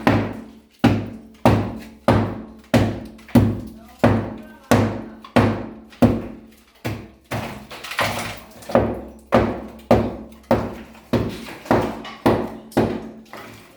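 Hammer blows struck steadily and evenly, about one every 0.6 seconds, each a sharp knock with a low thud and a short ringing fade.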